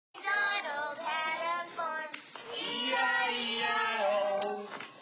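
Young voices singing a tune, with long held notes.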